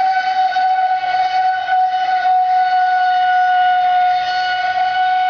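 NQD Tear Into RC jet boat's brushless motor and jet drive whining at full throttle, a loud, steady high-pitched tone that holds one pitch.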